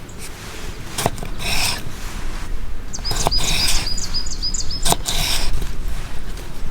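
A small bird chirping in a quick run of short, high repeated notes, joined by rustling and a few sharp clicks from gear being handled, over a low rumble that grows louder.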